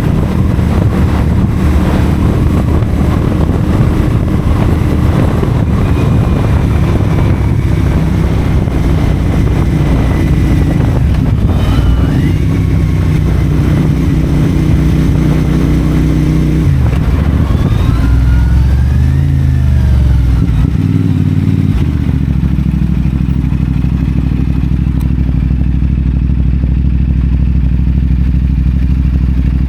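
CFMoto 450SR parallel-twin engine running through a Yoshimura AT2 slip-on exhaust while riding. The engine note holds steady, changes and dips a little past the halfway mark, then settles to a steady lower note to the end.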